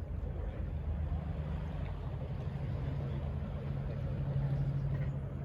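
Low, steady hum of an engine over the city and shoreline background, growing stronger after about two and a half seconds and easing slightly near the end.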